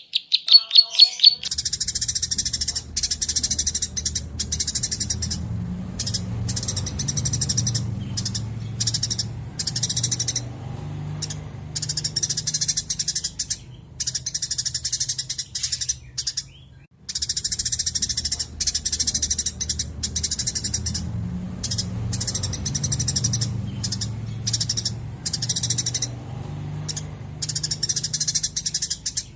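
Songbird master recording: a small songbird singing fast, dense, high chattering phrases in bursts with short gaps, over a steady low hum. The track breaks off about 17 seconds in and the song starts again.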